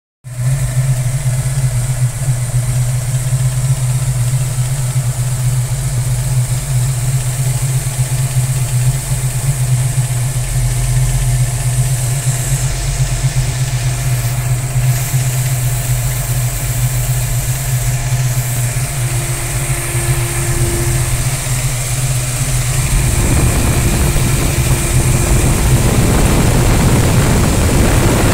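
Fox-body Mustang engine idling steadily, with a tapping noise of unknown cause in the front of the engine around the belt drive. It gets louder and harsher near the end, heard close to the engine.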